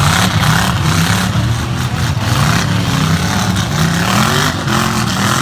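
Several race truck engines running hard together, each rising and falling in pitch as the trucks accelerate and back off.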